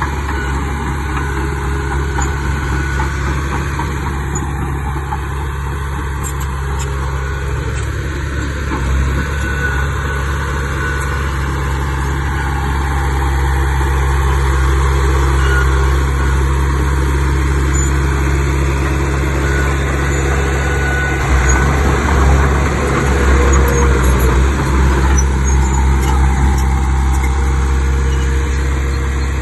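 Large diesel engine of earthmoving machinery running steadily with a deep drone, getting somewhat louder for a few seconds about two-thirds of the way through.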